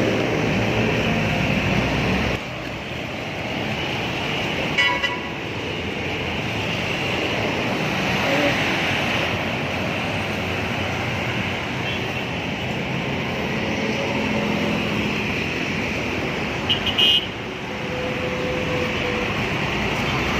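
Street traffic and wind noise heard while cycling along a city road. A vehicle engine runs close by at first, and short horn toots come about a quarter of the way in and again near the end.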